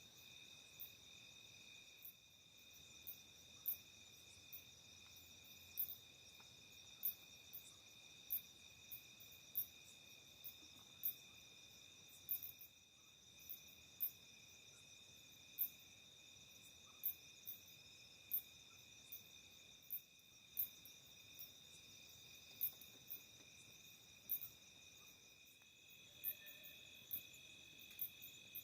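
Faint, steady chorus of crickets trilling, with short, very high ticks repeating irregularly about once or twice a second.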